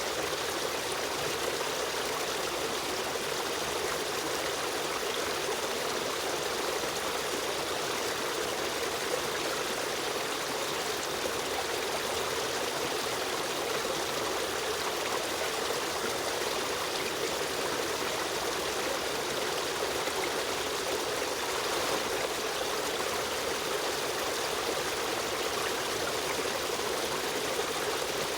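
Stream water running and trickling over rocks in a steady, unbroken rush.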